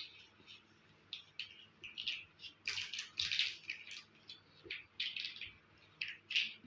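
Plastic toy building blocks clicking and rattling as they are handled, in short irregular bursts that are busiest about three seconds in.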